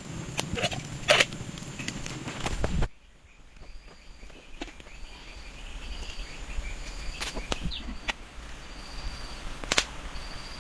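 Knocks and clicks over outdoor background noise; after a sudden cut, a steady series of short, high, same-pitched chirps about every 0.7 s from a small calling animal, with a few scattered clicks.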